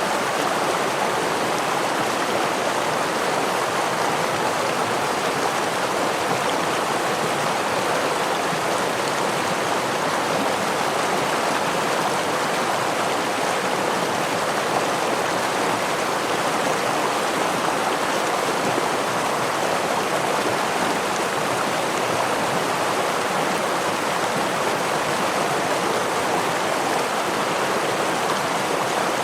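Steady rushing of a forest stream flowing over a small waterfall, an even water noise that doesn't change.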